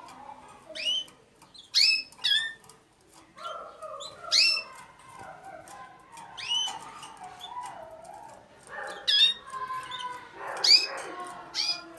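Domestic canaries calling: about eight loud, short chirps, each sweeping quickly down in pitch, spaced irregularly over quieter continuous twittering.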